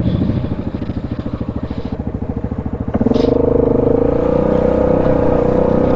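ATV engine running at a low, pulsing idle, then opened up about three seconds in and held at a higher, steady drone as the machine pulls away.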